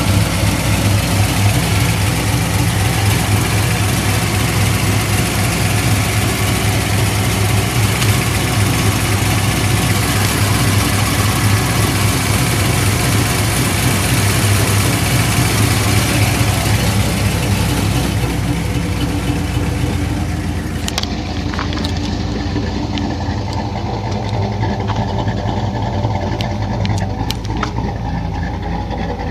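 Rebuilt 5.0 L (302) small-block V8 of a 2000 Ford Explorer idling with a lopey beat from its custom camshaft, heard through its 2.5-inch dual exhaust with a 40 series muffler. The sound goes a little duller and quieter about two-thirds of the way in.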